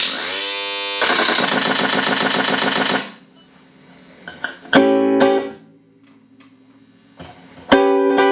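Electric guitar played through a Boss DD-8 digital delay pedal into Roland JC-120 amps. A dense, sustained wash of chord tones that slides in pitch at first cuts off abruptly about three seconds in. After a short lull, a single chord rings out and fades, and another is struck near the end.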